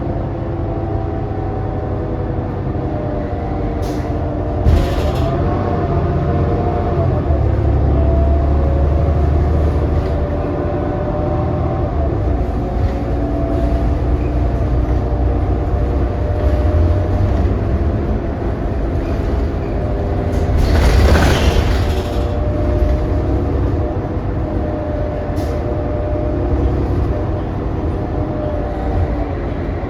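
Inside a 2018 New Flyer XD40 diesel transit bus under way: a steady low rumble carrying a drone of several wavering tones, the odd, "messed up" running sound this coach is known for. A short rattle comes about four seconds in, and a louder hiss rises and fades about two-thirds of the way through.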